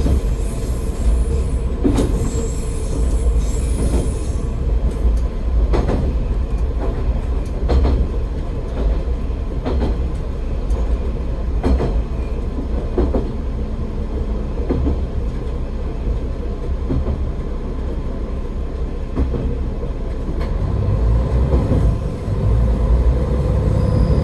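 AN-8800 diesel railcar running along the track: wheels clacking over rail joints about every one to two seconds over a low engine drone, with wheel squeal in the first few seconds. Near the end the engine note rises as the railcar pulls harder.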